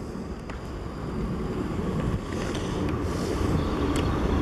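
South Western Railway Class 458 electric multiple unit approaching along the track, the rumble of its wheels on the rails growing steadily louder.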